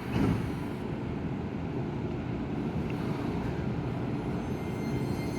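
Keisei N800-series electric train running on the rails, a steady low rumble, with a brief louder noise right at the start and faint high whining tones coming in near the end.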